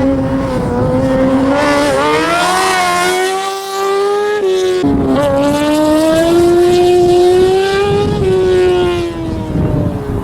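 Racing car engine revving hard through a slalom run, its pitch climbing and falling. About three seconds in it eases off briefly, then picks up sharply again near five seconds and settles lower near the end.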